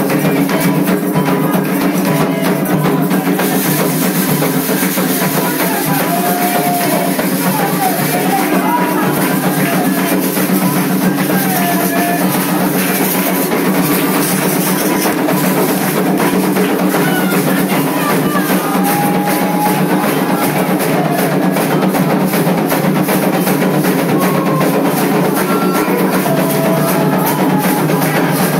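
Candomblé ritual music: atabaque hand drums playing a steady, dense rhythm, with voices singing over them.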